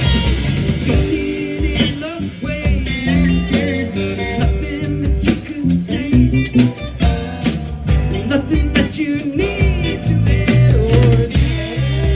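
A band playing a rock-blues song: guitar, bass and drum kit, with a singer's voice over them.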